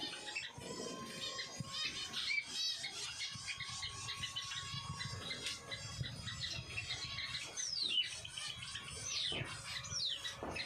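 Small caged birds, finches, chirping and calling together in a busy high twitter, with a couple of sharp falling whistle calls in the last few seconds.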